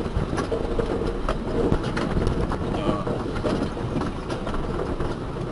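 A vehicle running on the move: a steady low engine and road rumble with scattered rattles and knocks.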